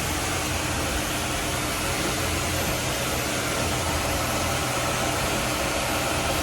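Bayliner 4788 motor yacht's engines running steadily under cruise load at about 18 knots: a low, even drone under a steady hiss.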